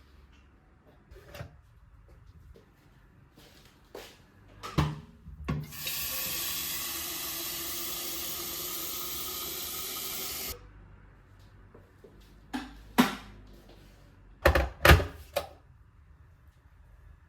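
Water tap running in a steady stream for about five seconds, starting and stopping abruptly, with a few short knocks and clicks before and after it.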